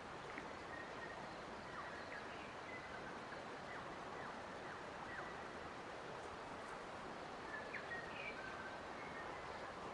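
Forest ambience: a steady rushing hiss of background noise, with scattered short, high bird chirps and brief whistled notes, a small cluster of them about eight seconds in.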